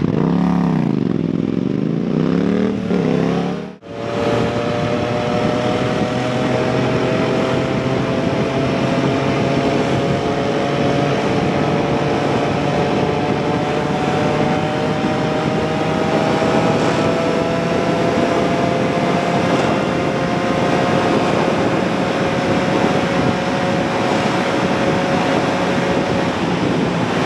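Motorcycle engine revving up and down for the first few seconds. After a sudden break about four seconds in, it runs steadily under way, its pitch rising slowly, over a constant rushing noise.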